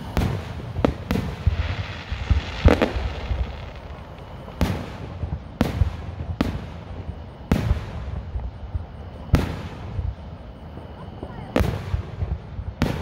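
Aerial firework shells bursting overhead: about a dozen sharp bangs at uneven intervals, one every second or two.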